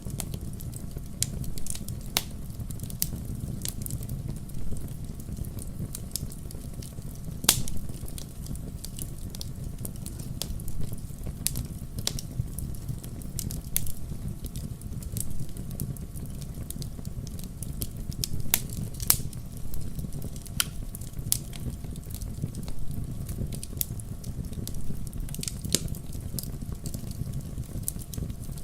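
Log fire crackling: sharp pops and snaps at irregular intervals over a low, steady rumble of flames. Two pops stand out louder, about a quarter of the way in and again about two thirds in.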